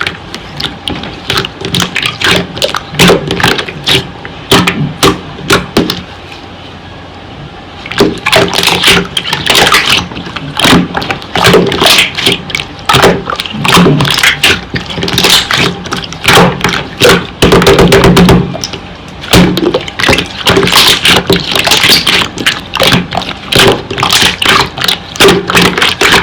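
Slime being squeezed and poked by hand: a dense run of wet clicks and pops of trapped air, easing off briefly about six seconds in before starting again.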